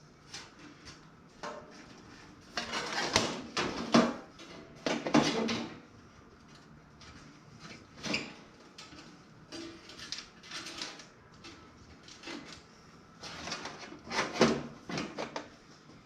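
Bursts of metallic clattering and clicking, several times, as parts are handled against a toaster oven's sheet-metal body.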